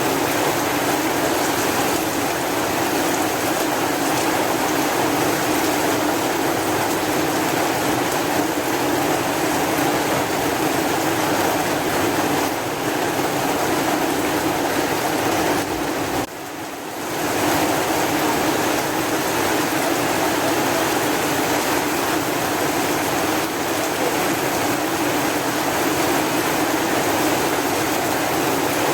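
Heavy rain falling steadily as a dense, even hiss. A little past halfway through it briefly drops away and swells back within about a second.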